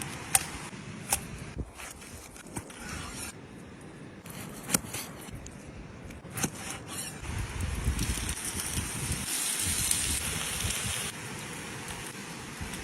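Outdoor cooking over a fire: a steady hiss and crackle that swells for a few seconds in the second half, with a few sharp clicks or taps scattered through it.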